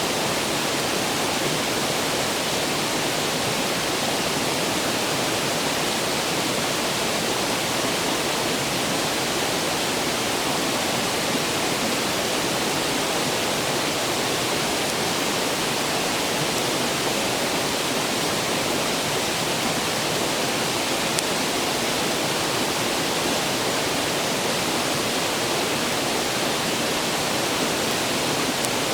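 A clear stream rushing steadily.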